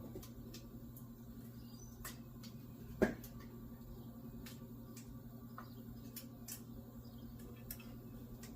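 Scattered light clicks and one louder knock about three seconds in, from parts and hand tools being handled while an engine is taken apart, over a steady low hum.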